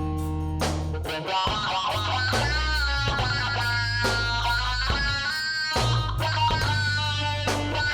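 Instrumental passage of a rock/pop song: guitar over held bass notes, with a regular percussion beat and a sustained melody line.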